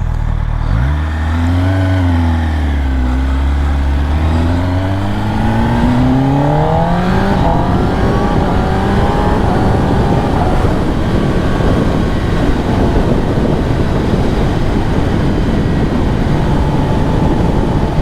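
Kawasaki ZX10R's inline-four engine accelerating, its pitch climbing steadily for several seconds. After that, rushing wind noise at speed drowns out the engine.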